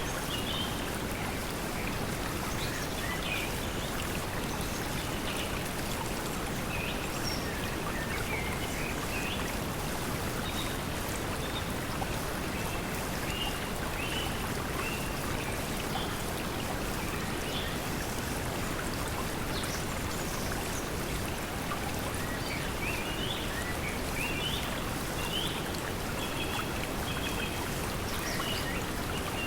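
Steady pink noise mixed with flowing stream water, with short high bird chirps scattered over it, more of them near the start and toward the end.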